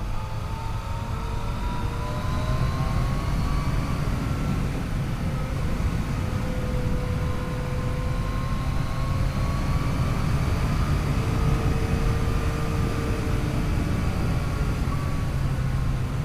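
Yamaha FJ-09's 847 cc three-cylinder engine running under way, its pitch slowly rising and falling as the throttle is rolled on and off, over a steady rush of wind noise.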